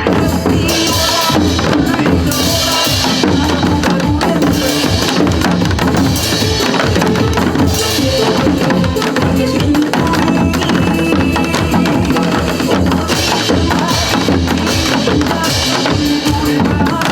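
A trot-style song's backing track with a steady drum-kit beat, with a group of janggu hourglass drums played along to it.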